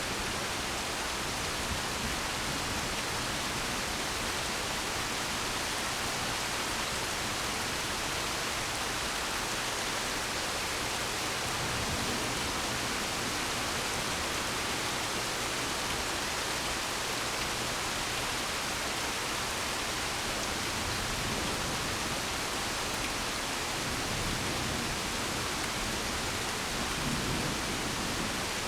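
Steady rain falling during a thunderstorm, an even hiss that holds at one level throughout.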